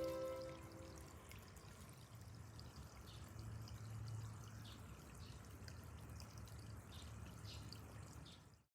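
Small waterfall in a biotope pond, water trickling and splashing steadily with little drips; it cuts off suddenly near the end.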